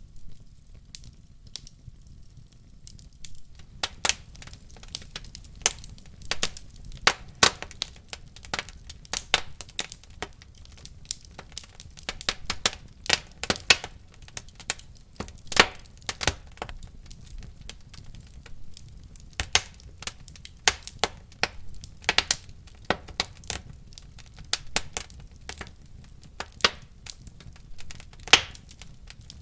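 Wood fire crackling, with irregular sharp pops and snaps over a low steady rumble. The pops are sparse for the first few seconds, then come thick and fast.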